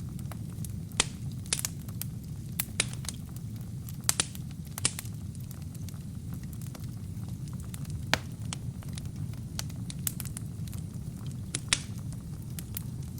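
Wood fire burning in a fireplace: a steady low rumble of flames with sharp, irregular crackles and pops from the burning logs, a few standing out louder than the rest.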